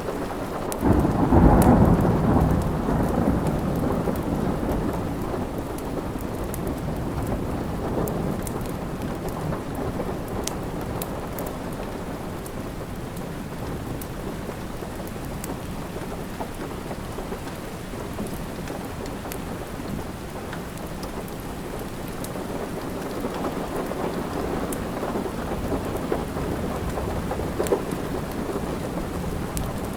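Steady rain with a roll of thunder about a second in that fades over several seconds. Scattered sharp ticks run through the rain.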